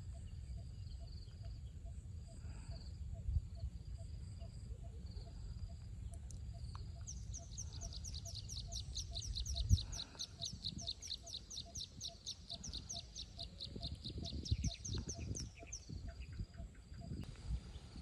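Outdoor nature ambience: a bird's fast run of high falling chirps, about five a second, from about seven seconds in until near the end, over a steady high hum and a low rumble.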